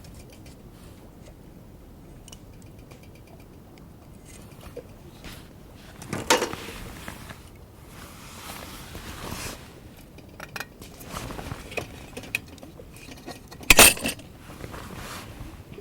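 Metal camp gear being handled: scattered clinks and rattles, with two louder clattering knocks, one about six seconds in and one near the end.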